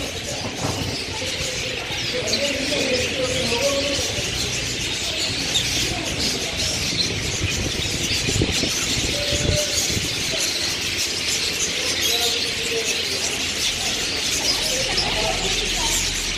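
Many small caged birds chirping at once: a dense, steady high-pitched chatter.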